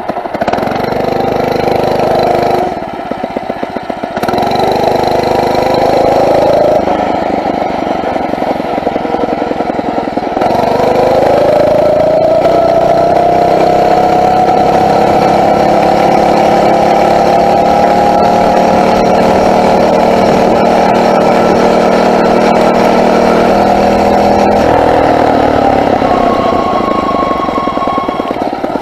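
Small four-stroke engine of a Phatmoto motorized bicycle running under throttle while riding. Its pitch dips briefly a few times early on. It then climbs slowly for about fifteen seconds as the bike picks up speed, and falls away when the throttle is eased near the end.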